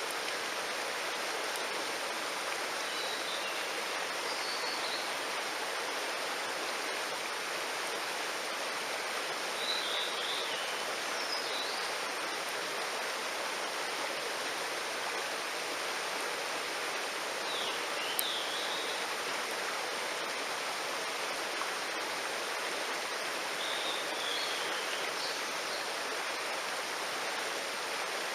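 Mountain stream rushing steadily. Short high chirping calls come through it four times, and there is one sharp click about two-thirds of the way in.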